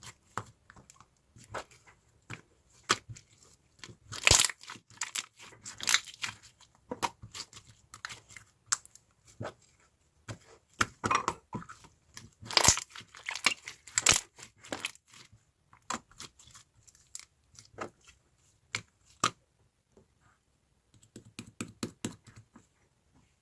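Slime being squished and pulled by hand, giving irregular sticky pops and crackles that come in denser, louder clusters, with a short lull near the end.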